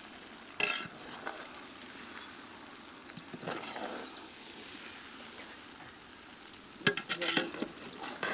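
A metal utensil clinks and scrapes against a cooking pot as cooked rice is mixed into fried potato masala. There are a few sharp clinks, with a cluster of them near the end.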